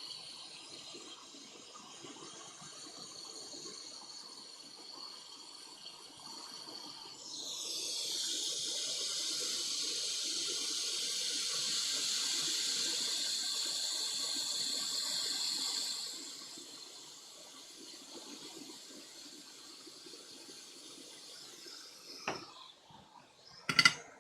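A steady rush of blown air at the repair bench. It starts about seven seconds in and cuts off about sixteen seconds in, over a fainter constant hiss with thin high tones. Two sharp clicks come near the end.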